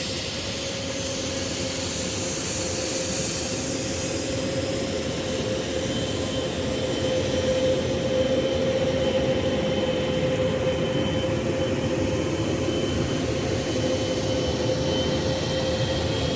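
Jet airliner engines running steadily, a broad rush with a held mid-pitched whine and a fainter high whine that rises slightly near the end.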